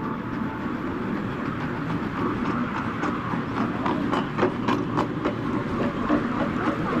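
Miniature tourist train running on its track: a steady rumble with a quick run of wheel clicks over rail joints from about two seconds in to about five and a half seconds in.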